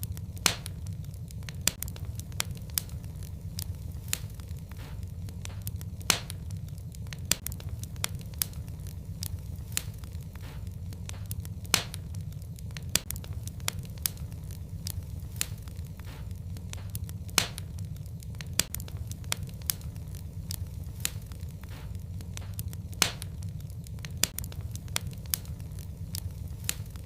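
A fire burning in a fireplace: a steady low rumble of flames with frequent small crackles and a louder, sharper pop every five or six seconds.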